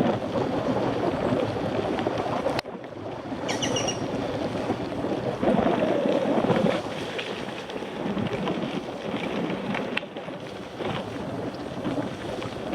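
Wind buffeting the microphone of a Shimano CM-1000 action camera on a moving mountain bike, a rough rushing noise that surges and drops. A short high-pitched tone sounds briefly a few seconds in.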